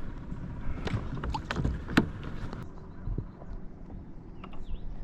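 Scattered knocks and clicks on a Hobie Outback fishing kayak's plastic hull over a low, steady rumble, the sharpest knock about two seconds in.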